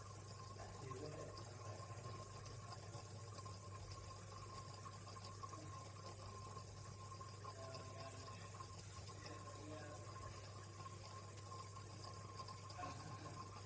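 Faint, steady trickle of running water over a constant low hum.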